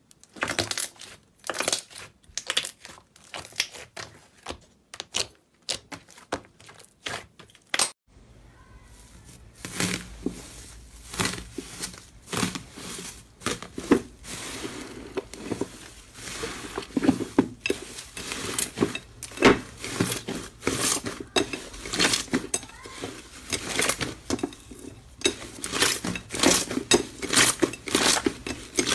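Slime being squeezed and pressed by hand, giving sharp crackling pops and clicks. The pops are sparse at first; about eight seconds in there is a cut, after which they come thicker and faster over a faint steady hiss.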